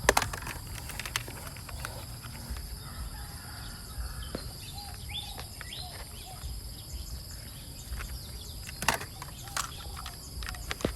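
Outdoor ambience: steady chirring of insects, with a few short bird calls around the middle and a couple of sharp clicks, one near the start and one about nine seconds in.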